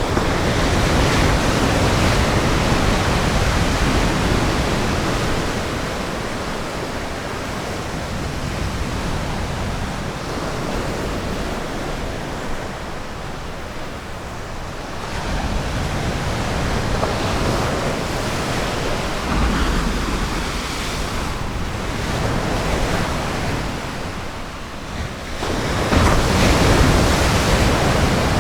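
Ocean waves breaking and washing ashore in a steady rush, swelling loudest at the start and again near the end, with some wind on the microphone.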